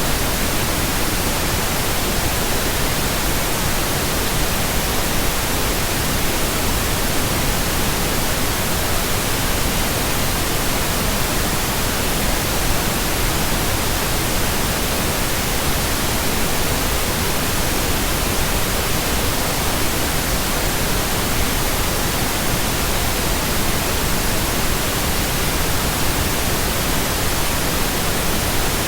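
Steady pink noise: an even, unbroken hiss with no changes in level or pitch.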